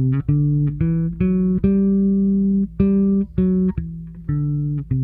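Fender Custom Shop '58 electric bass with flatwound strings, played clean through a compressor and amp simulator: a simple line of about a dozen separate notes, one of them held for over a second in the middle.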